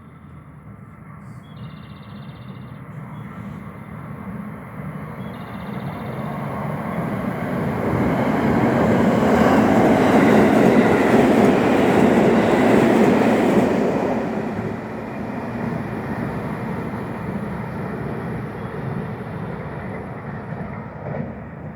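An electric train passes through the station at speed without stopping. Its rumble and wheel noise build over several seconds, are loudest for about six seconds in the middle, then fall back as it moves away.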